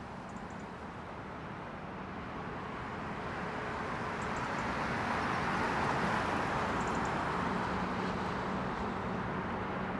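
Jet airliner engine noise passing, a steady rushing sound that swells to its loudest about six seconds in and then eases off a little.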